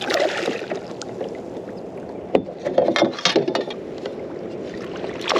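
Scattered knocks and clatter of gear against a kayak as the landing net is grabbed, over a steady background of water and wind noise.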